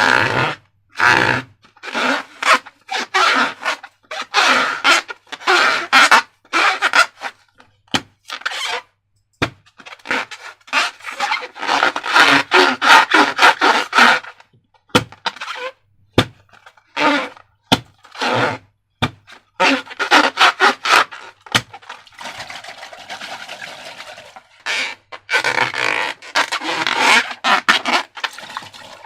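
Slime being squeezed and worked by hand, giving runs of wet, sticky crackling squelches with short pauses and a few sharp clicks.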